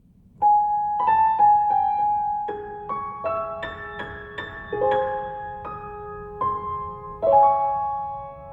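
Piano introduction to a theme song: a slow melody of single struck notes, each ringing and fading, with a chord struck about seven seconds in.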